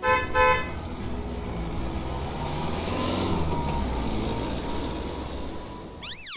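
Cartoon truck sound effects: two short horn honks, then a steady engine-and-driving rumble as the truck moves off. Near the end comes a quick whistling pitch sweep that goes up and back down.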